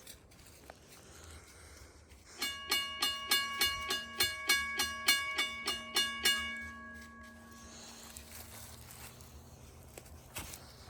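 Railroad crossing signal bell ringing, a quick steady run of strikes at about four a second for some four seconds, then its ring dies away.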